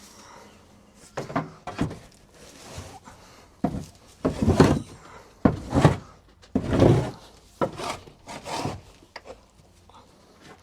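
A run of about a dozen short scraping and knocking sounds on wood, some in quick pairs, loudest in the middle.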